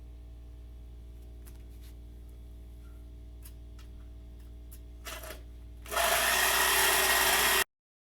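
A power tool starts about six seconds in and runs loudly for about a second and a half, after a short burst just before; then the sound cuts off abruptly. Before that there is only a low steady hum and a few faint clicks.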